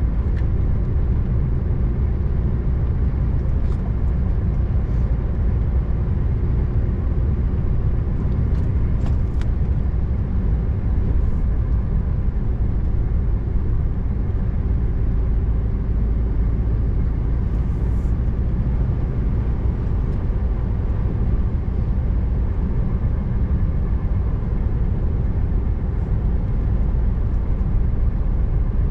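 Steady low rumble of a Scania R590 V8 truck driving at a constant pace, engine and road noise together, with a few faint clicks along the way.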